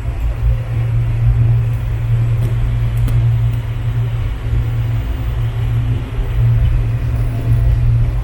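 Passenger train running, a steady low rumble heard from inside the coach, with a few faint clicks about three seconds in.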